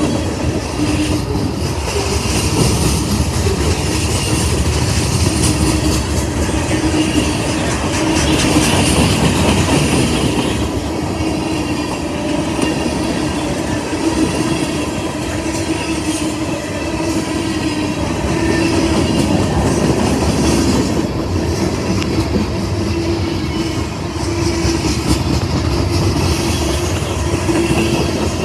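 Freight cars of a CSX trash train rolling past: a steady loud rumble and clatter of steel wheels on the rails, with an on-and-off hum or squeal.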